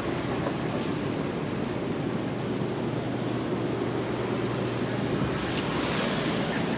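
Steady outdoor rushing noise of road traffic and wind, with no single event standing out.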